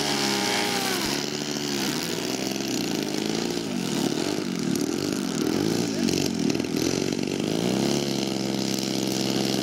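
Several small radio-controlled model airplane engines running at once, their pitches rising and falling and crossing as the throttles are worked while the planes taxi-race on the ground.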